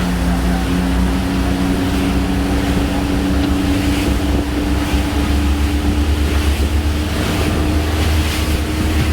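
Twin Detroit Diesel 6V53 two-stroke V6 diesels running hard as the Bertram 38 sportfishing boat gets up on plane, a steady loud drone, with the rush of water and wind buffeting the microphone.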